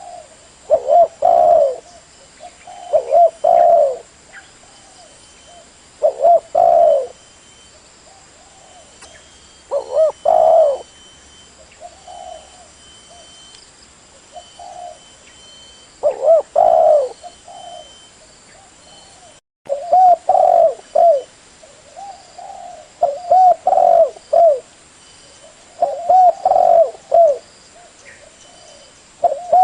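Spotted dove cooing: phrases of several low coos, repeated every two to three seconds, with a momentary break in the sound about two-thirds of the way through.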